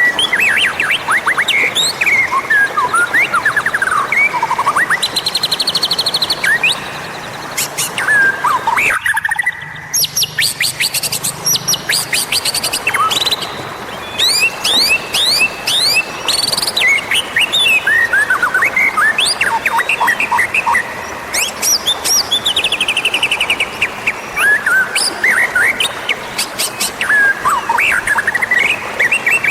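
White-rumped shama song: a loud, continuous run of varied whistles, sliding notes, chirps and rapid buzzy trills, with a short break about nine seconds in.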